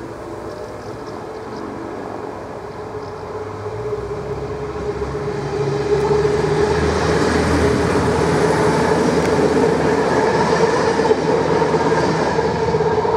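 DSB IC2 diesel multiple unit approaching and passing close by. It grows much louder between about four and six seconds in, then runs on steadily with engine hum and wheel noise, easing off slightly near the end.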